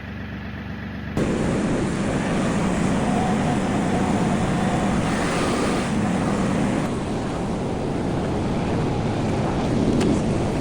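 Tractor engine running steadily while clearing snow, a loud even rushing drone that jumps up abruptly about a second in.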